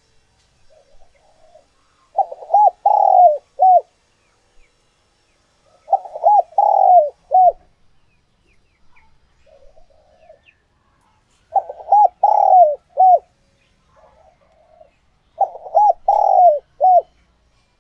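Spotted dove cooing: four phrases of three or four notes each, one note in every phrase drawn out and falling, coming every four to six seconds. Softer, shorter cooing notes fall between the phrases.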